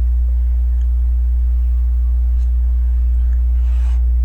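Steady low hum that dominates the recording, with a few faint clicks of plastic LEGO pieces being handled.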